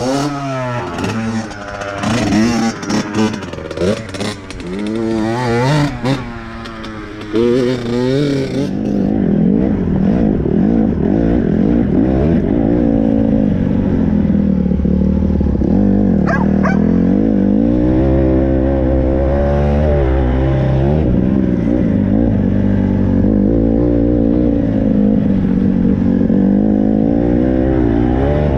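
Dirt bike engine revving up and down as the bike is ridden, its pitch rising and falling over and over. About nine seconds in, the sound turns duller and steadier.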